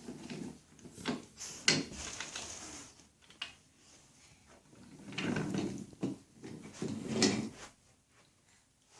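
Toy train set pieces being handled: a scatter of short knocks and clicks, with a longer sliding scrape about five seconds in.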